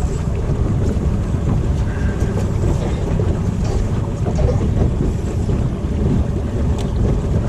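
Wind buffeting the microphone out on an open boat: a steady low rumble.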